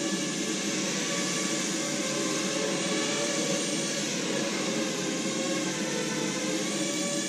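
Small electric quadcopter's motors and propellers buzzing steadily in flight, the pitch wavering slightly as the rotor speeds change.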